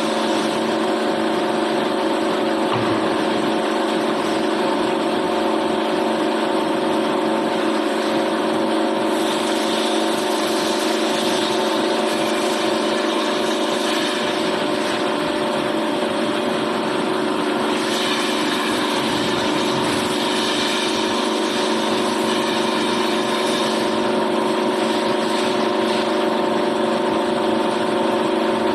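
A machine running steadily: a constant hum made of several fixed tones over a noisy hiss, with no change in speed or load.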